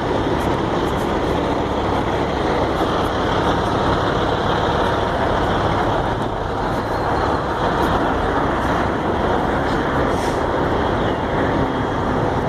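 Steady noise of diesel trucks running in a truck stop lot, with interstate traffic behind it.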